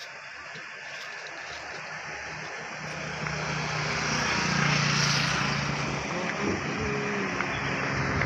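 A heavy vehicle's engine approaching, growing steadily louder. Its engine note comes through plainly from about three seconds in.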